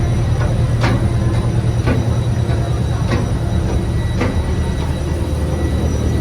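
Steady low rumble of a moving vehicle, with sharp clicks or knocks coming irregularly, roughly every half second to a second.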